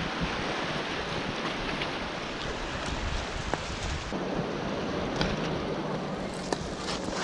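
Steady wind noise on the microphone mixed with the wash of sea surf, with a few light clicks in the second half.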